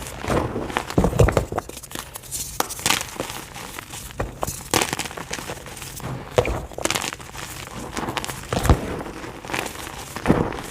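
White gym chalk being crushed by hand, a run of soft, irregular crunches and crackles. There is a steady low hum underneath.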